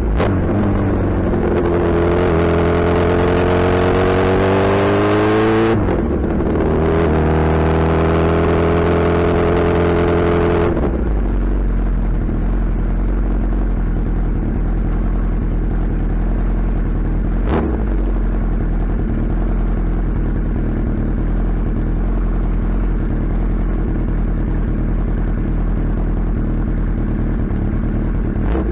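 Suzuki Hayabusa's inline-four engine and exhaust pulling hard, its pitch rising for about six seconds, dipping briefly at a gear change, then pulling again. About ten seconds in it drops to a lower, steady cruise for the rest, with a single sharp click partway through.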